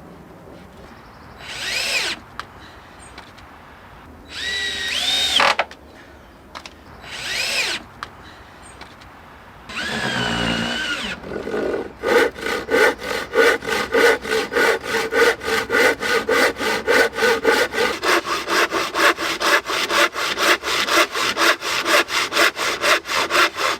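Power drill driving screws into decking boards in four short whining bursts, followed by a hand saw cutting through a wooden board with quick, even strokes, about four a second.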